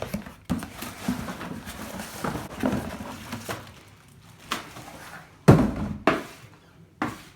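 A package being opened and its contents handled: packaging rustles for the first few seconds, then a few knocks as items are moved or set down, the loudest about five and a half seconds in.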